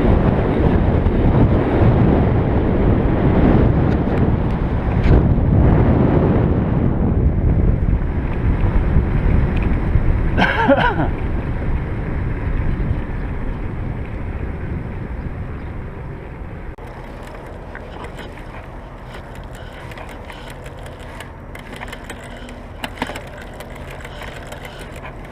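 Wind rushing over the microphone during a fast downhill run on a bicycle, dying away as the bike slows, with a brief squeal about ten seconds in. In the quieter second half there are light clicks and rattles from the bike.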